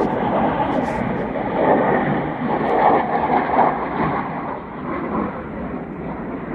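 Low-flying military aircraft circling overhead: a steady, continuous rumble that swells slightly about two to four seconds in.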